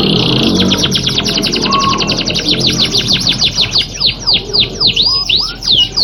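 Canary singing a fast trill of high whistled notes, each sweeping downward, about ten a second, slowing in the last couple of seconds to a few separate rolling notes a second.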